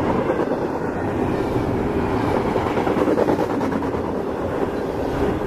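CSX freight train rolling past close by: a steady rumble and rattle of cars and wheels on the rails.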